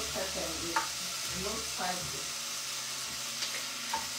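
Food frying in hot oil in a pot on a gas stove, sizzling steadily, with a few light knocks of a utensil or board against the pot.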